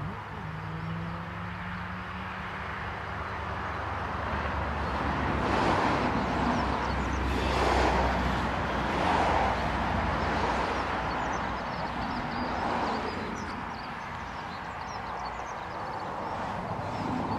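A train running past with a low rumble that builds and then eases. Loud rushing surges come every second or two over the rumble.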